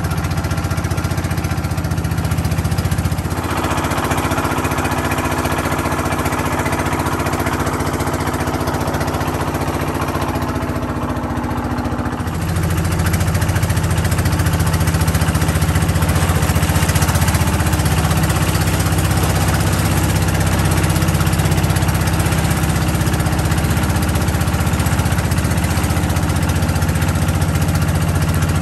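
Motorboat engine running steadily with a low drone; its note shifts about three seconds in, and it grows louder about twelve seconds in.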